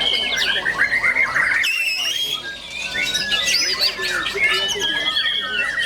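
White-rumped shamas (murai batu) singing, several at once: a dense, unbroken mix of whistled phrases, trills and harsh squawking notes.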